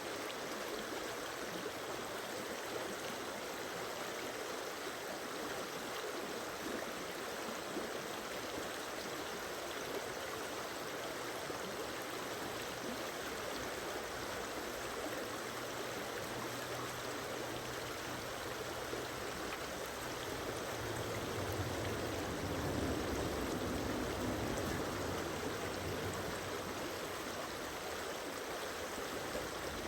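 Steady rushing of a flowing stream, with a low rumble swelling in about two-thirds of the way through.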